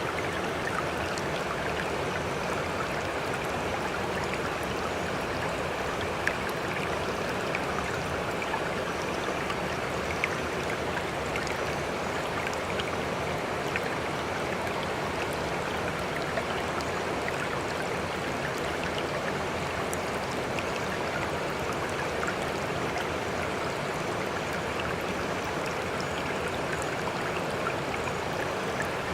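Sea water washing and trickling in a steady, even rush, with a few small splashes and drips popping out now and then.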